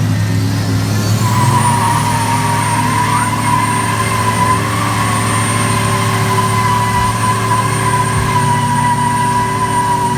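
Pulling truck's engine running hard and steady under load, with a high whine that rises over the first two seconds and then holds.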